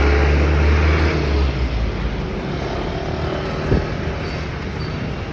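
A motor vehicle passing close on the road, its low engine rumble fading after about a second and a half into steady traffic noise, with a single short knock near the middle.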